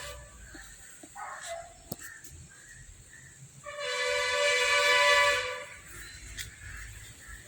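A horn, most like a train horn, sounds one steady blast of about two seconds, starting about four seconds in. A short meow-like call comes about a second in, with a faint steady high insect-like hum behind.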